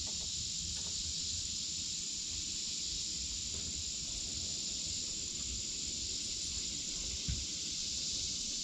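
Steady, unbroken high-pitched chorus of insects. A soft low thump comes about seven seconds in.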